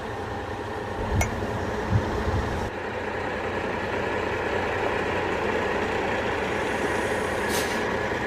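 Heavy tow truck's diesel engine idling steadily, with a few short knocks and thumps as a towing rig is fitted onto a trailer hitch.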